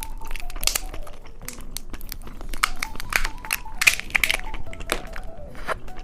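Plastic candy wrapper crinkling and being torn open: a string of short, sharp crackles.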